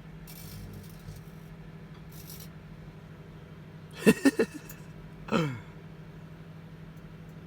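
Microwave oven running with a steady low electrical hum. About four seconds in there is a short, loud voice-like sound, and a second one a little later slides down in pitch.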